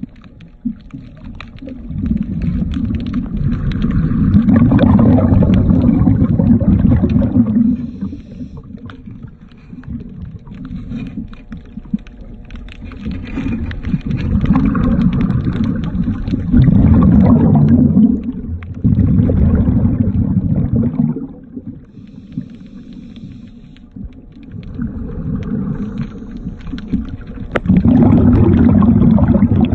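Underwater sound of a diver breathing through a regulator: exhaled bubbles rush past the microphone in four long, muffled surges several seconds apart, with quieter gurgling between them.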